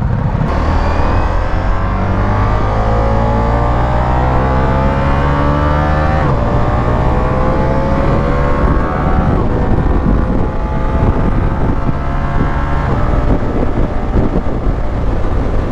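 Ducati Diavel V4's V4 engine pulling under acceleration, its pitch rising through the gears with sharp drops at two upshifts, about six and nine seconds in, then running steadier at speed.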